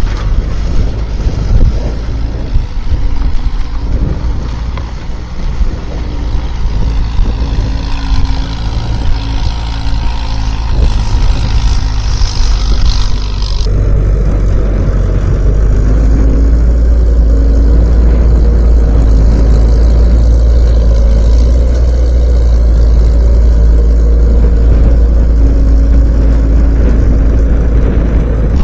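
Skid steer's diesel engine running and working, loud and low. About halfway through the sound changes abruptly and becomes steadier and deeper.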